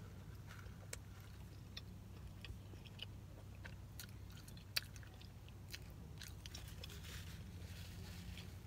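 A person chewing a crispy chicken biscuit: faint wet mouth smacking and scattered small clicks, with one sharper click about halfway through. A low steady hum runs underneath.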